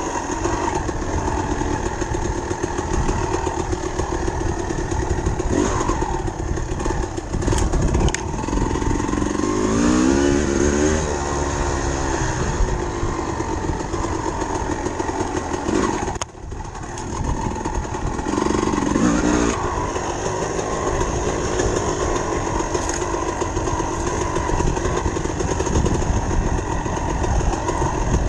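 Dirt bike engine running steadily, revving up with rising pitch about a third of the way in and again later, with a brief drop in power just past halfway.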